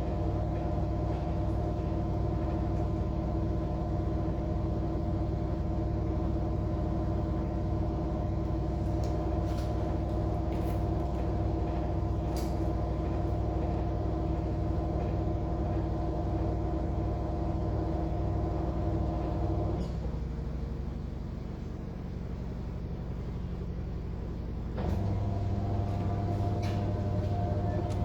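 Air conditioner running with a steady hum made of several fixed tones. The tones cut out about two-thirds of the way through, leaving a lower rumble, then kick back in abruptly near the end.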